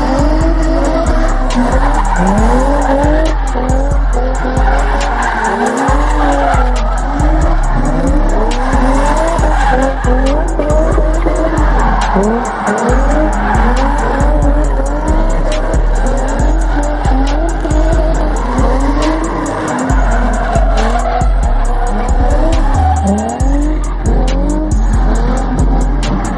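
Car engine revving hard again and again while its tires squeal and smoke in a burnout, over loud music with a heavy bass.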